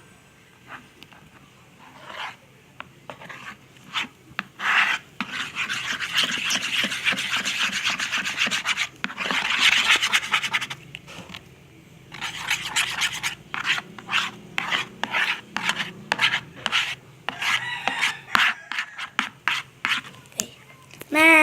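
Slime mixture of glue, water and green colouring being stirred with a utensil against its container, a scraping, rubbing sound. Scattered scrapes at first, steady continuous stirring from about five seconds in, then short separate strokes for the second half.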